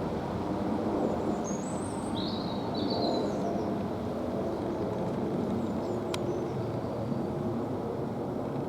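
Airbus A350-900's Rolls-Royce Trent XWB jet engines making a steady, low rumble overhead. A few small bird chirps come about two seconds in, and a single click about six seconds in.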